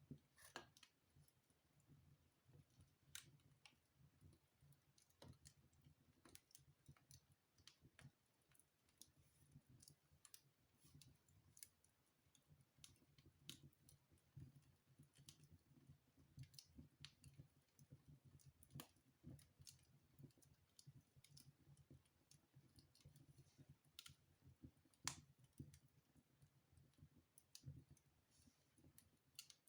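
Faint, irregular crackling and popping of a fire burning in a fireplace, with one sharper pop about 25 seconds in.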